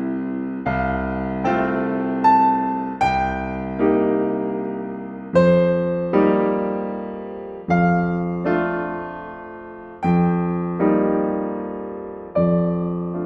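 Slow, gentle solo piano music: notes and chords struck every second or so, each ringing on and fading away before the next.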